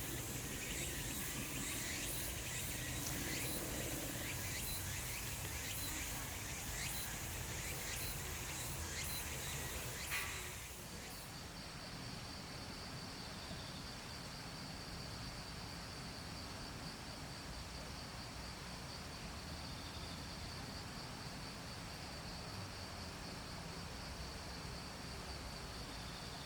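Outdoor insect chorus in late summer grass: for the first ten seconds a dense hiss with irregular ticks, then, after an abrupt change about ten seconds in, one insect's steady, high, rapidly pulsing trill over a quiet background.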